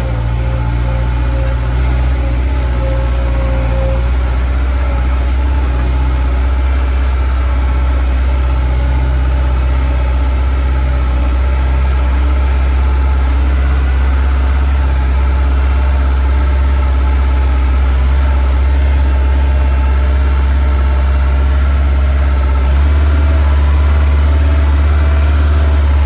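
Skid steer engine running steadily as a loud, deep hum with a faint higher whine over it; the hum steps up slightly near the end.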